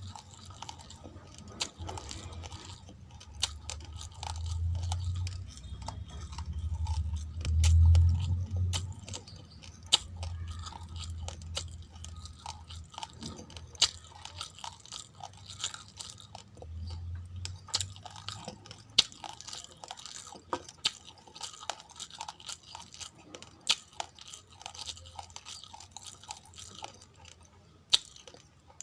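Uncooked rice being chewed close to the microphone: a steady run of sharp crunching cracks as the hard grains break. Deeper muffled chewing sits underneath in the first several seconds and again briefly about two-thirds of the way through.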